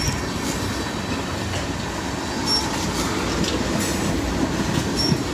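Freight train of propane tank cars rolling past, steel wheels running steadily on the rails with light clicks and two brief high wheel squeals.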